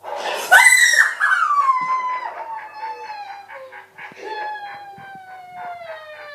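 Dog howling: two long howls, each sliding steadily down in pitch, the first higher and louder.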